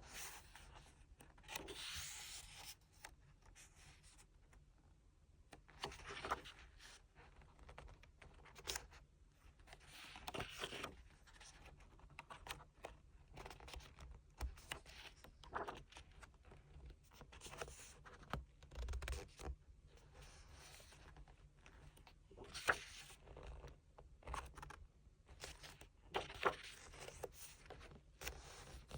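Hands handling a photobook album and its paper contents: intermittent rustling, rubbing and scraping of paper, with a few sharp clicks.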